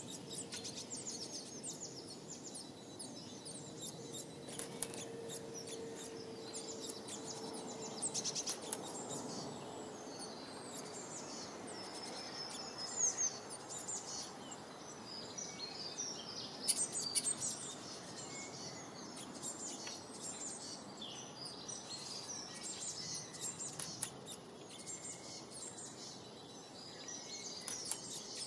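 Several songbirds chirping and singing in quick, overlapping phrases over a steady outdoor background hiss.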